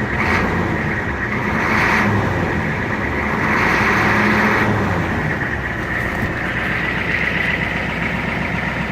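Ford 6.9-litre IDI diesel V8, fitted with a Banks turbo and Banks exhaust, idling steadily while still warming up on its cold advance. The sound swells briefly twice, near two seconds in and again around four seconds.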